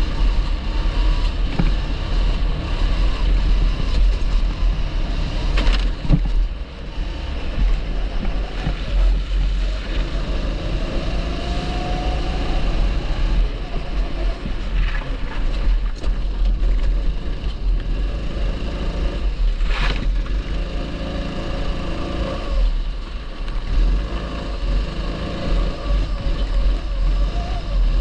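270cc kart engine running on track, its pitch rising and falling with the throttle.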